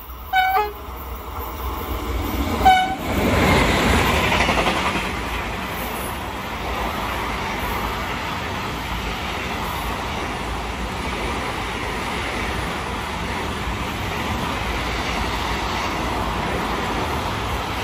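Freight train hauled by an E494 electric locomotive running through a station at speed: two short horn blasts about two seconds apart as it approaches, then the loud rush of the locomotive passing. The steady rolling noise of a long line of container wagons follows.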